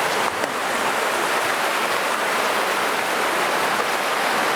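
Steady rushing hiss of running water, even throughout with no distinct drips or knocks.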